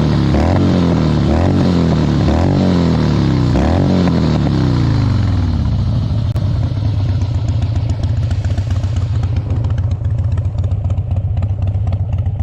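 Harley-Davidson Dyna Wide Glide's V-twin engine revved repeatedly, its pitch rising and falling about once a second, then settling to a steady idle about five seconds in.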